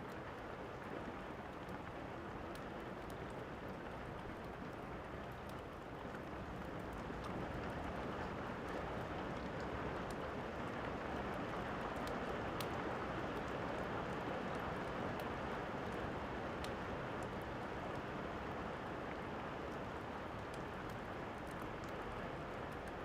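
Steady rain falling, with scattered small crackles and pops of a fireplace. The rain swells louder for several seconds around the middle, then eases back.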